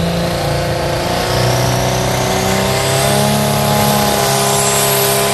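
A modified pulling tractor's engine running loud and steady, its pitch edging slowly up, with a high whine climbing throughout.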